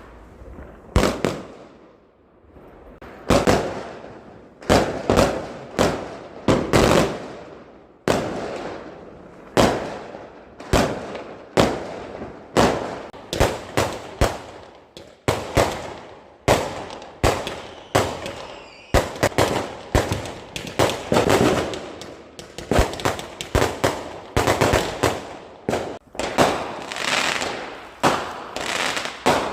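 Fireworks going off in a display: a long series of sharp bangs, each trailing off, a second or so apart at first and coming in quicker, overlapping volleys from about two-thirds of the way in.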